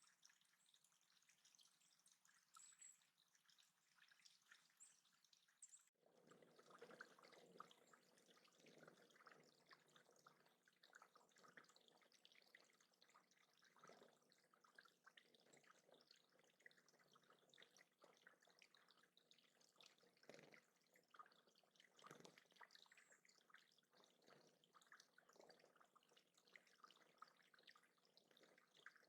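Faint trickling and dripping water from a small bird-pond water feature, fuller from about six seconds in, with scattered drips.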